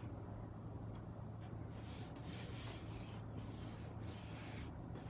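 Paper or cardstock being rubbed and handled: a run of short dry swishes in the middle few seconds, over a low steady hum.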